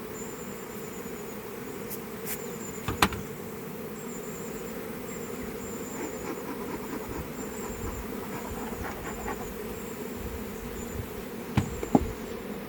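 Honeybees buzzing around an opened hive, a steady dense hum, broken by a sharp knock about three seconds in and two more near the end.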